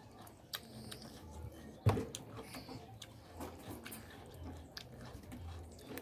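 Close-miked eating sounds: chewing and wet mouth smacks of someone eating mutton curry, with one louder smack or bite about two seconds in.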